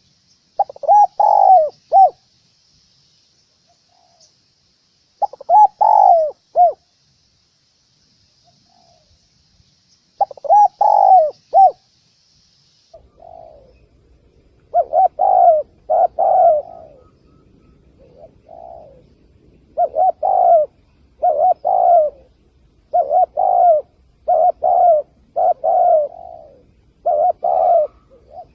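Spotted dove cooing. First come three multi-note coo phrases about five seconds apart, then from about halfway a quicker run of coos, roughly one a second, over a faint low hum.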